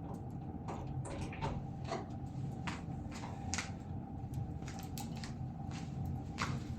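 Irregular light clicks and knocks of hands handling a decorative electric fireplace and its parts, over a steady low hum.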